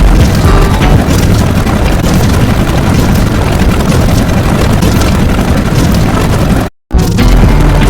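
Loud, steady rumbling noise with most of its weight in the bass and no clear pitch, cutting out completely for a split second near the end before resuming.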